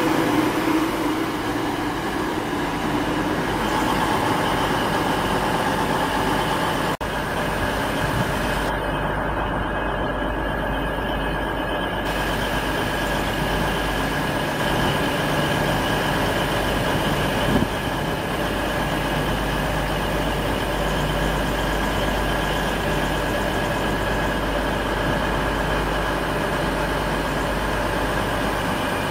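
An East Midlands Trains diesel train running past, loudest in the first few seconds, then a steady rumble of trains moving through the station with a low hum and a steady high whine.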